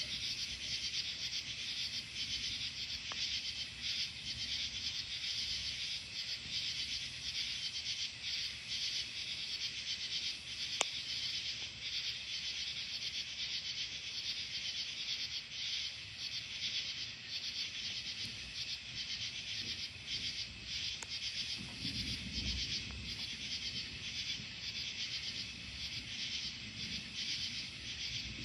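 Steady, pulsing chorus of night insects, crickets and the like, chirping. A low rumble of distant thunder swells about three-quarters of the way through, and there is a single sharp click just before the middle.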